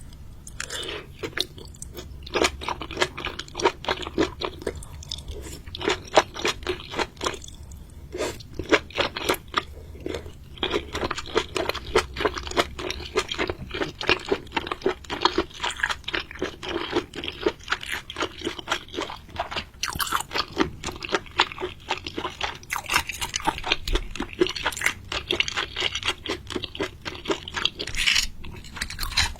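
A person chewing and crunching mouthfuls of seafood: a steady run of quick crunches with a few short pauses between bites.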